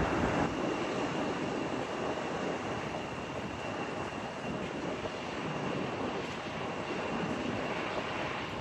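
Airbus A380's four jet engines at takeoff power on departure: a steady rushing noise with a faint high whine, easing slightly.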